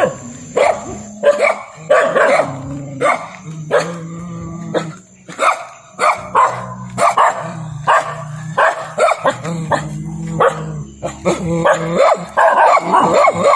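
Dogs barking and yipping in rapid, repeated short barks.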